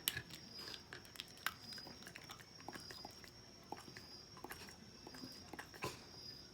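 Shiba Inu biting and chewing on a plastic bottle cap: irregular small clicks and crunches, with a few sharper clicks, one right at the start, one about a second and a half in and one near the end.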